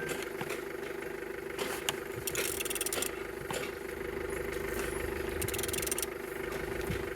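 BMW M57D30 inline-six diesel engine being turned over by hand with a ratchet wrench, the ratchet clicking in short bursts about every three seconds, with scattered knocks of the tool, over a steady hum.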